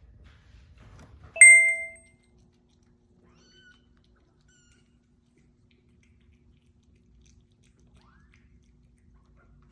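A single bright bell-like ding about a second and a half in, ringing out and fading within half a second. Later come a few faint, short mews from the stray kittens.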